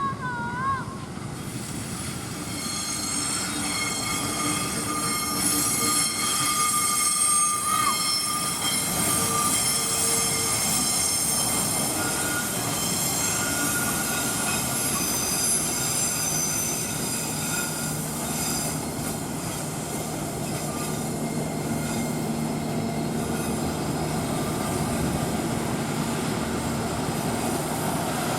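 Passenger train rolling past, with a steady rumble of wheels on rail and several high-pitched wheel squeals held from about two seconds in. A low steady hum joins in the second half.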